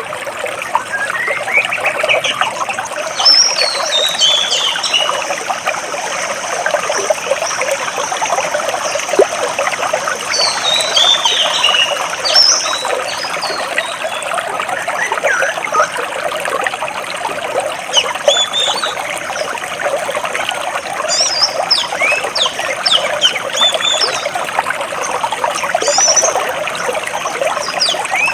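Stream water running between large rocks in a steady, fairly loud rush, with small birds chirping over it: quick falling runs of chirps about three and eleven seconds in, and many short calls through the second half.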